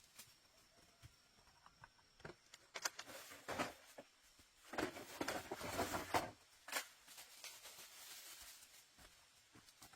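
Scattered small knocks and clicks with bouts of rustling and scraping, the longest from about five to six seconds in.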